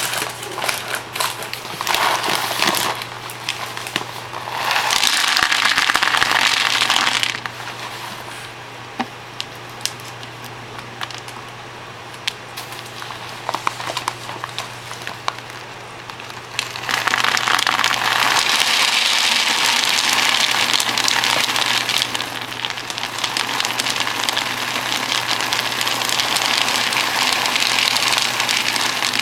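Dry cat food kibble pouring and rattling: two short bursts, then a long steady pour over the second half.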